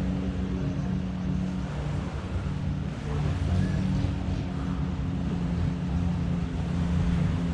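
Longtail boat engine running steadily close by, a low, even engine tone.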